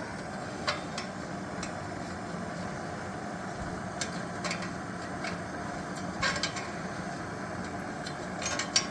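Gas torch burning steadily as it heats seized, rusted nuts to loosen them, with a few light metal clinks from tools, several of them near the end.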